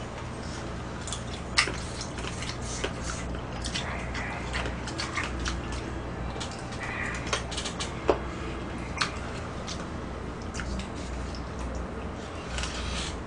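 Close-up chewing and lip-smacking of people eating spicy braised monkfish with bean sprouts, with scattered sharp clicks, two louder ones about 1.6 and 8 seconds in, over a steady low hum.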